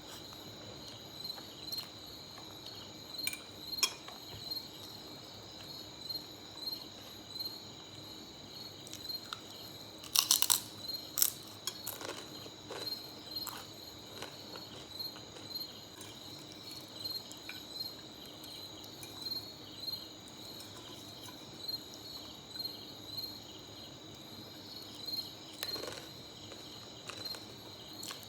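Steady high-pitched insect chirping, pulsing evenly. A few sharp clicks come through it, loudest in a quick cluster about ten seconds in.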